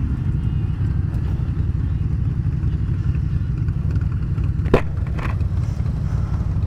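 Yamaha FZ-07's parallel-twin engine running steadily under way, with a low rumble of riding noise. A sharp knock comes about three-quarters of the way through, followed by a fainter one half a second later.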